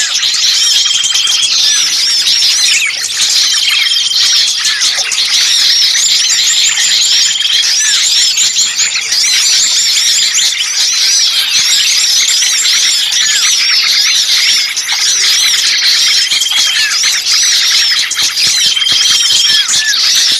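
Bird-lure recording of many small birds calling at once in a noisy, agitated chorus of dense overlapping chirps and twitters, with a short steady whistle recurring every few seconds. These are the excited, distress-like calls of small birds, used to draw other birds in.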